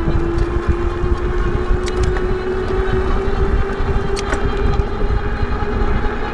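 An e-bike's electric motor whining under power, one steady tone that slowly rises in pitch as the bike gains speed, over heavy wind rumble on the microphone.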